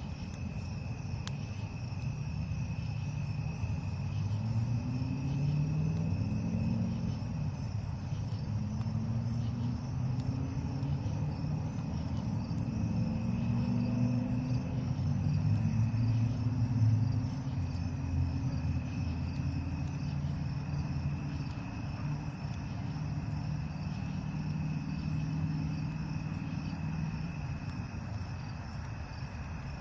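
Crickets chirping steadily, with the low rumble of a passing engine that swells over several seconds, is loudest a little past the middle, then fades away.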